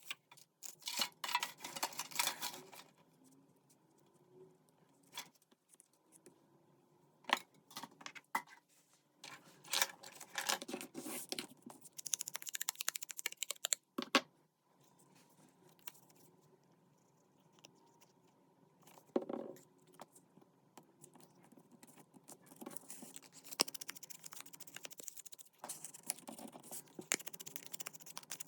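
Paper craft handling at a desk: paper and cardstock rustled and handled, with scattered taps and clicks, coming in bursts between quiet pauses.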